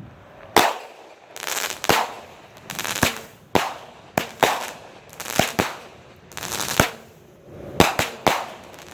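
Daytime smoke firework cake firing its shots: more than a dozen sharp bangs at uneven spacing, about one or two a second, each followed by a brief hiss.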